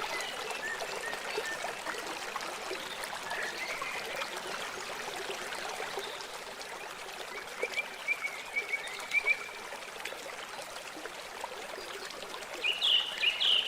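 Steady rain and running water, with a run of short high chirps about halfway and louder chirping near the end.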